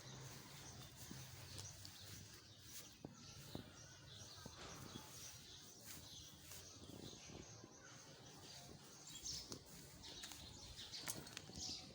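Near-silent outdoor ambience with faint bird chirps, more of them near the end, and a few small clicks.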